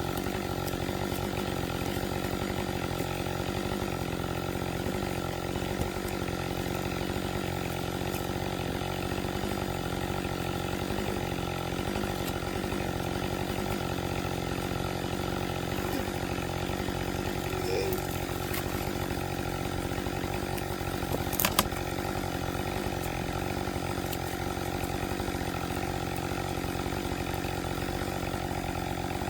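Husqvarna 562 XP two-stroke chainsaw running steadily. A single sharp click sounds about two-thirds of the way through.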